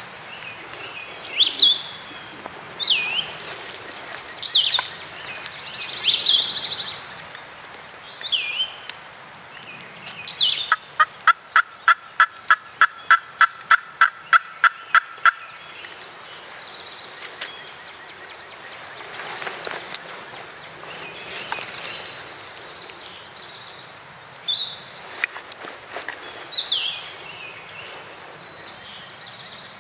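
A series of about fifteen turkey yelps, evenly spaced at roughly three a second, midway through, among repeated short, high songbird chirps.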